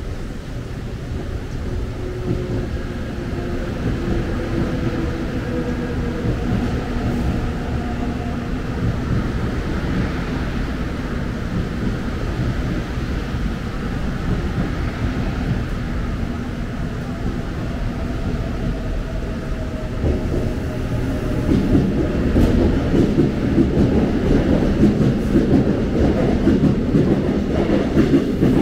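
Seoul subway Line 1 electric train running on the tracks: a steady rumble with a faint motor whine sliding slowly down in pitch. About 20 seconds in it grows louder, with wheel clatter.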